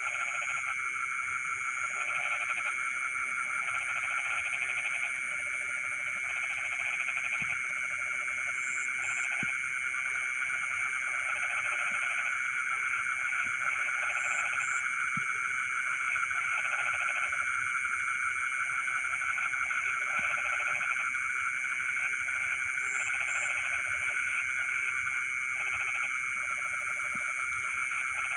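Night chorus of frogs in rice fields. Bouts of croaking about a second long repeat every second or two over a steady, high, continuous trilling.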